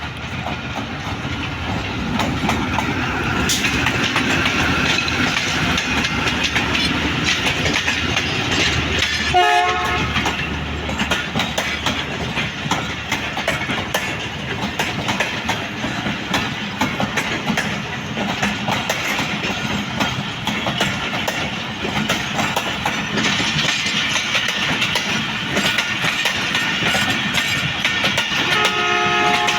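Diesel-hauled passenger train rolling past, its steel wheels clattering over rail joints. A locomotive horn sounds briefly about nine seconds in and again near the end.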